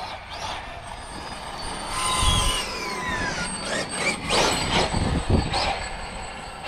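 Electric drive of a Losi 5ive TE 3.0 RC truck whining as the truck is driven, the pitch sweeping up and down with throttle and speed. There are low thuds about two seconds in and again near five seconds.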